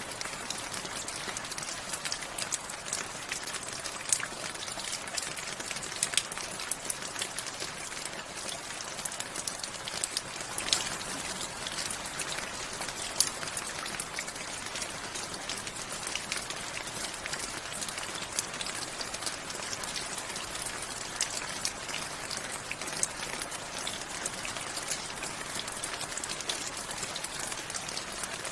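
Steady rain falling, with a constant hiss and many close drops landing in sharp, irregular ticks, some much louder than others.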